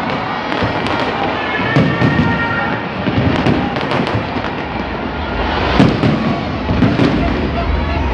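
Aerial fireworks going off in quick succession: repeated sharp bangs with crackling between them.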